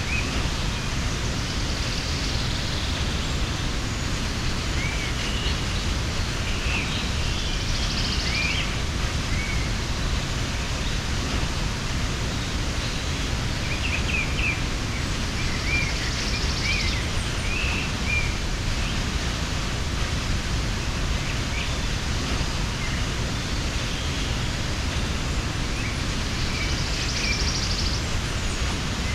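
Steady rush of a mountain waterfall, with small birds chirping and whistling now and then above it.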